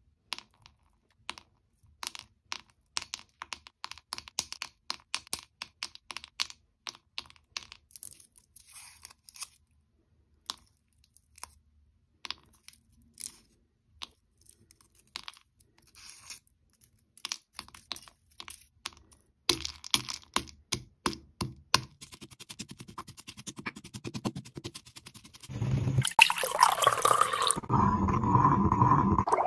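Brittle material being crushed: crisp cracks and snaps at irregular intervals, growing denser after about twenty seconds. Near the end a loud steady rushing sound with a hum takes over.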